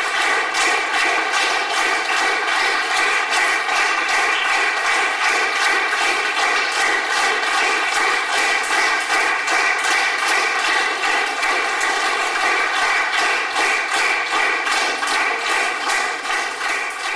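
Audience applauding steadily, a dense crackle of many hands, beginning to fade near the end.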